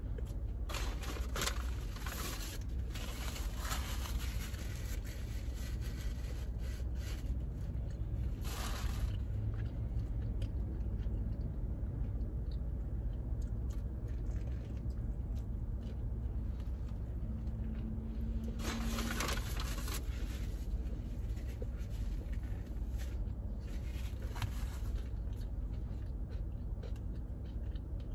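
A person chewing a crispy fried chicken sandwich, with scattered crunches and mouth noises over a steady low hum.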